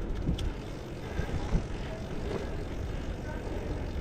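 Wind rumbling on an action camera's microphone while riding a gravel bike, over the steady rolling noise of the tyres on paved road.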